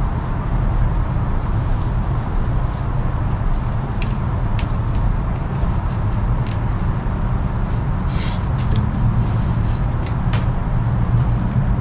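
Steady low background rumble, with scattered light clicks and ticks from cord and sticks being handled while a clove hitch is tied.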